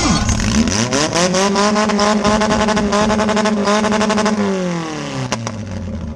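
Compact demolition derby car's engine revved up, held at high revs for about three seconds, then let back down. A single sharp knock comes near the end.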